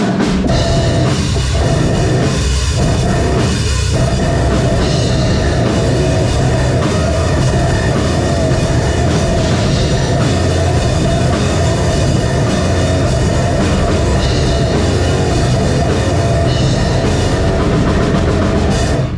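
Live metalcore band playing at full volume with a pounding drum kit: a few short stop-hits in the first four seconds, then the heavy riff runs on steadily.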